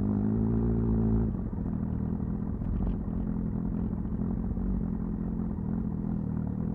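Kawasaki ZXR's inline-four engine running steadily, its pitch easing down slightly about a second in.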